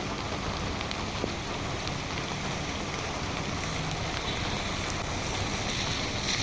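Heavy rain falling, a steady hiss with scattered drop clicks, and a brighter hiss building near the end.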